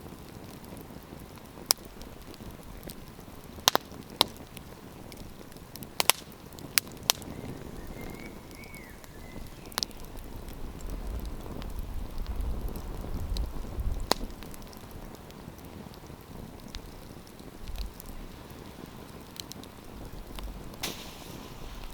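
Wood campfire burning with a steady hiss and crackle, broken by sharp single pops every second or two, the loudest about four and six seconds in. A low rumble swells in the middle.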